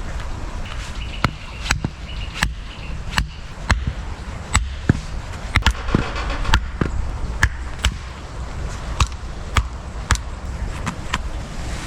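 Wood being chopped with an axe: about twenty sharp knocks at uneven spacing, most half a second to a second apart.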